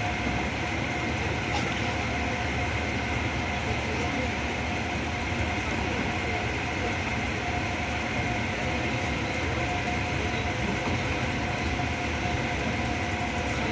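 Pakistan Railways Subak Khram passenger express running on the line: a steady rumble with an unchanging high hum over it.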